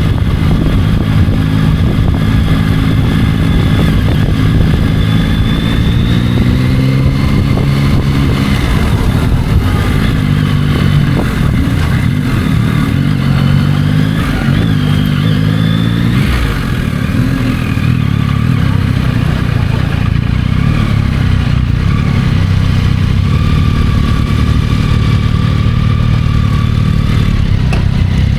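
Yamaha motorcycle engine on a road ride, revving up and dropping back several times as it pulls through the gears in the first half, then running more steadily.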